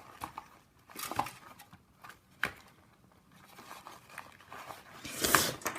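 Foil wrapper of a Kinder Surprise egg being handled and peeled, soft crinkling and rustling with a few small clicks, one sharper click about halfway through.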